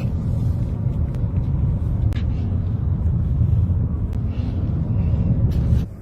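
Heavy low rumble of a car driving, with road and wind noise and a few faint clicks. It cuts off suddenly near the end.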